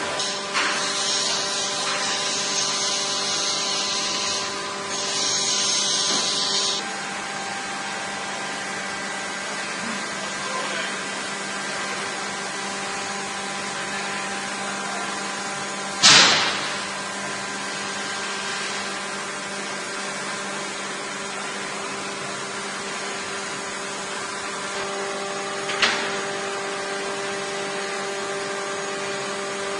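Heavy lathe running with a steady hum of several tones. Two stretches of high-pitched hiss come in the first seven seconds, a loud sharp bang about halfway through, and a smaller knock near the end.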